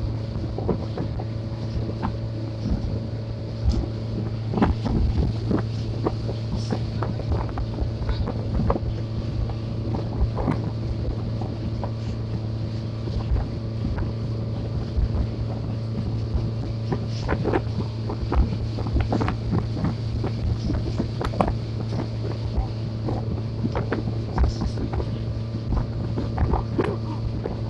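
Boat engine running with a steady low drone, with wind buffeting the microphone and irregular knocks and thumps throughout.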